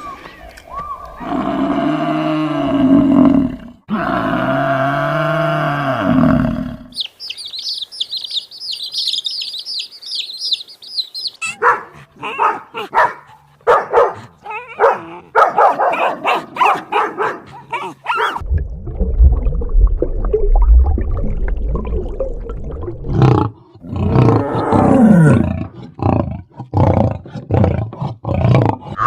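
A run of different animal calls, one short clip after another, including a roar: two pitched calls, then a high chirping run, quick repeated cries, a low rumble, and more pitched calls near the end.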